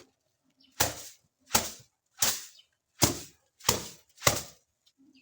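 Six sharp strikes in an even rhythm, a little under two a second, each dying away quickly.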